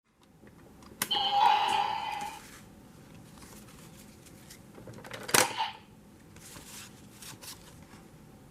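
Kamen Rider transformation sound effects: a click about a second in sets off a loud burst of noise with a held electronic-sounding tone for about a second and a half, then a single sharp snap a few seconds later, followed by a few light clicks.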